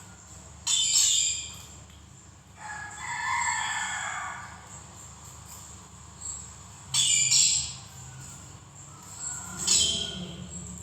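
Birds calling: a few short chirps and one longer call that lasts about two seconds.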